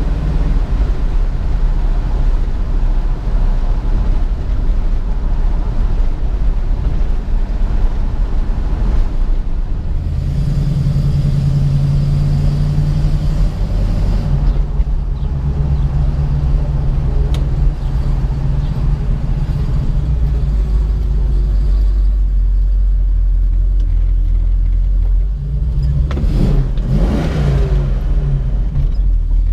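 1967 Ford Mustang's 289 V8 running on the road with a steady low rumble; its note changes about ten seconds in. Near the end a short sweep of rising and falling pitch passes over it.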